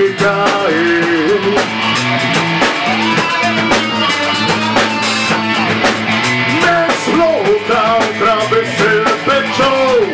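Rock band playing a song: male singing over electric guitars, bass and a drum kit, with a steady driving beat.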